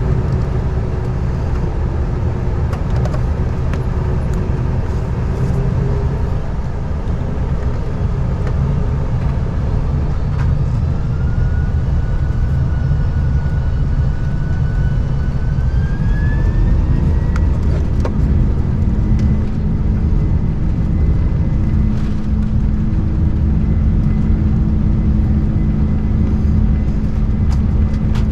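Boeing 747-400 engine noise heard inside the cabin: a steady low rumble with a whine that climbs in pitch about halfway through and then holds steady as the engines spool up.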